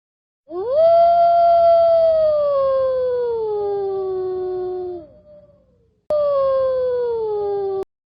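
Jackal howling: two long howls. The first rises quickly, then slides slowly down in pitch for about four seconds; the second, shorter one also falls and cuts off suddenly near the end.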